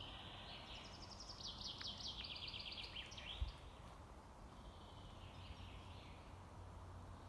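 Songbirds singing faintly: a fast trill of quickly repeated high notes, then a shorter, lower phrase a couple of seconds later. A single soft low knock comes about three and a half seconds in.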